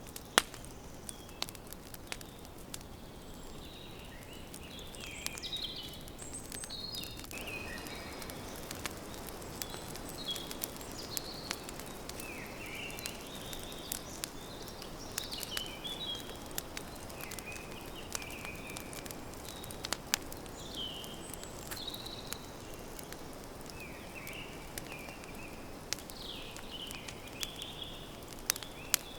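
Wood campfire crackling, with many sharp pops over a soft steady hiss; the loudest pop comes just after the start. Small birds chirp repeatedly in short phrases throughout.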